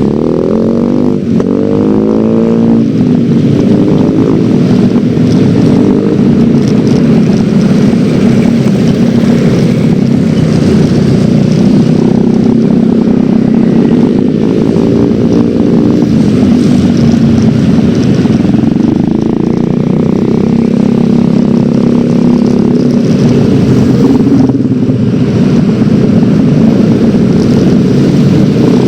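Yamaha X-Ride 113cc scooter's single-cylinder engine running on the move, its pitch rising and falling with the throttle, under steady rushing wind noise on the microphone.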